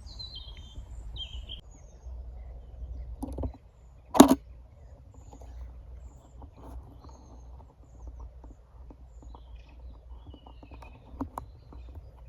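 Small woodland birds chirping briefly in the first second and a half, then a single loud sharp knock about four seconds in, followed by faint scattered crackles and clicks over a low rumble.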